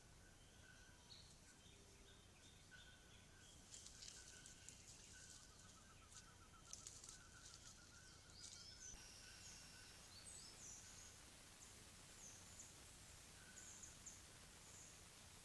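Faint forest birdsong from several birds: short repeated whistled notes and a fast trill, then after a cut a series of high, falling chirps about once a second.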